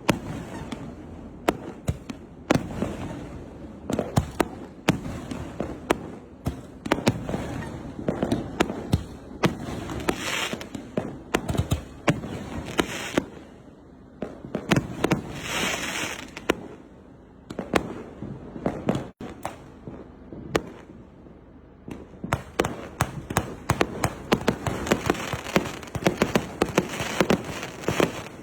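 Fireworks display cakes firing: shell bursts and sharp reports with sprays of hiss between them, then from about three quarters of the way in a rapid, dense run of small reports as a 1.2-inch 318-shot cake fires.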